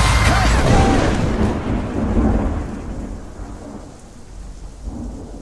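Thunderstorm sound: a deep thunder rumble over steady rain, dying away over a few seconds.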